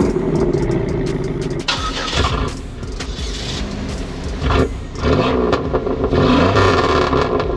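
A loud car engine running and revving, its pitch rising and falling.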